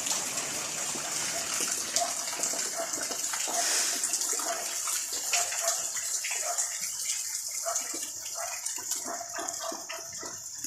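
Steady light rain falling, with many small drops and drips ticking on surfaces.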